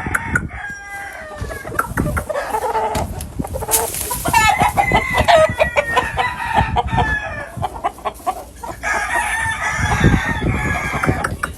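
Gamefowl roosters crowing over one another, with clucking from other birds.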